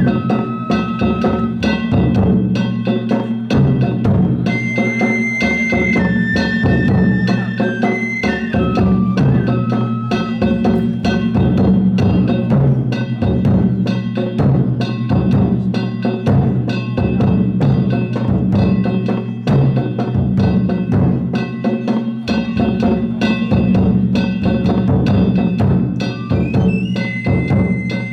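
Danjiri festival narimono: taiko drums and small hand gongs beaten in a fast, steady rhythm. A high flute plays held notes over it near the start and again near the end.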